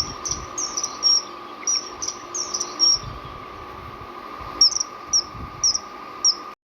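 Common kingfisher calling: short, sharp, high-pitched notes repeated in quick runs of two or three, over a steady high hum. The sound cuts off suddenly just before the end.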